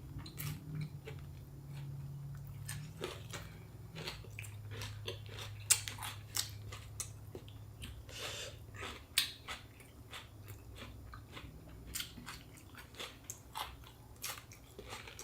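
Close-miked chewing and biting of a fresh spring roll filled with shrimp and raw vegetables. It gives irregular wet mouth clicks and soft crunches, with a couple of louder bites about six and nine seconds in.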